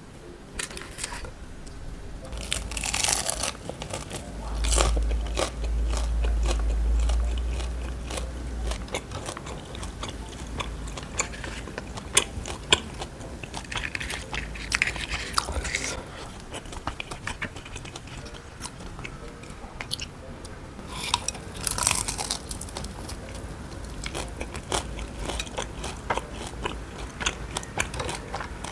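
Close-up chewing and crunching of fried spring rolls (cha gio), with many small crisp crackles and wet mouth sounds. About five seconds in, a low rumble runs for a few seconds.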